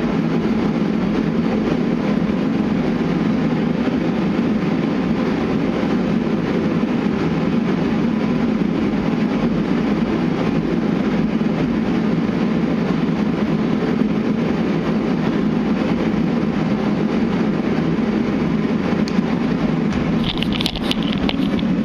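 A steady low droning noise with no rhythm or change in pitch, and a few light clicks near the end.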